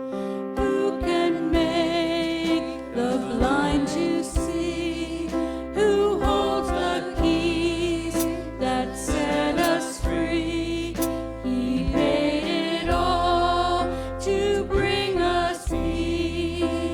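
Christian worship song: a voice singing a wavering melody over held instrumental chords and low bass notes.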